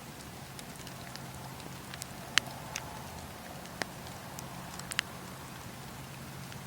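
Wood fire crackling in a fireplace: a steady low rush of flames with scattered sharp pops, the loudest about two and a half seconds in and a few more around four and five seconds.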